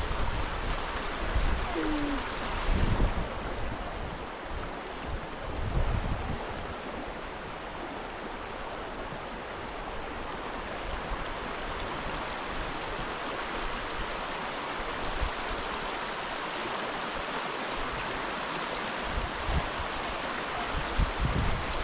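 River water flowing in a steady rush, with gusts of wind buffeting the microphone now and then.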